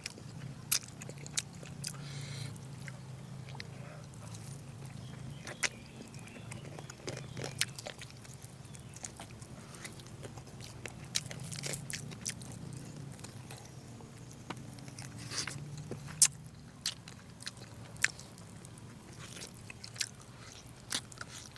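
A person chewing and biting into braised pork close to the microphone, with frequent sharp clicks of the mouth and teeth.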